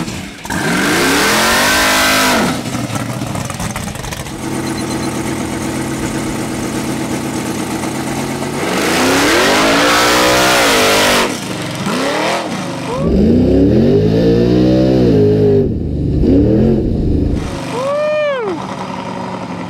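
Nitrous Fox-body Mustang's engine revved hard several times, each rev rising and falling in pitch. It ends in a few short, higher blips near the end.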